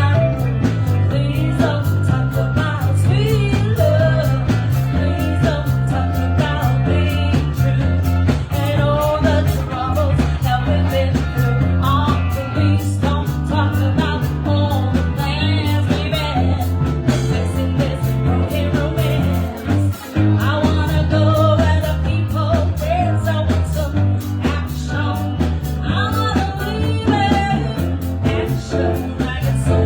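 Live band playing a rock song: a singer over drums, bass and guitar. The music stops for a moment about twenty seconds in.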